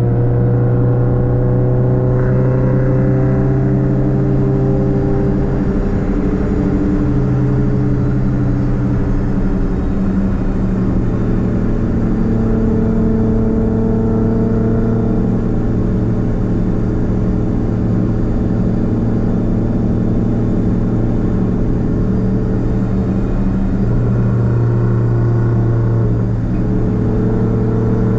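Straight-piped exhaust of a Nissan Platina's four-cylinder engine while driving: the engine note climbs in pitch over the first few seconds, shifts around ten seconds in, and otherwise holds a fairly steady cruising drone.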